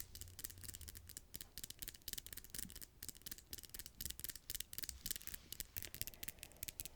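Freshly manicured fingernails tapping and clicking quickly and unevenly, several light clicks a second.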